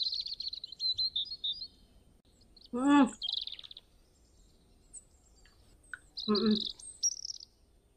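Small birds chirping in quick high trills, in three short bouts. Two brief voice sounds from a person, about three and six seconds in, are the loudest moments.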